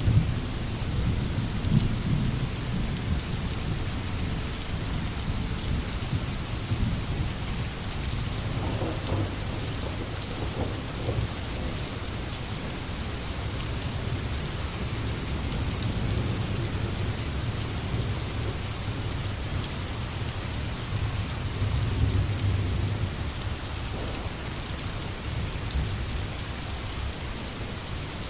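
Steady rain falling in a forest, an even hiss, under low rolling rumbles of thunder that swell and fade, strongest about two seconds in and again around twenty-two seconds.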